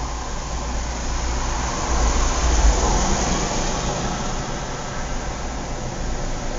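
Outdoor suburban ambience: a steady rumble of distant road traffic, swelling as a vehicle passes about two to three seconds in.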